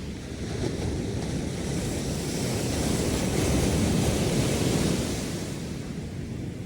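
Ocean surf on a sandy beach: a wave swells, breaks and washes up, loudest a little past the middle before easing off.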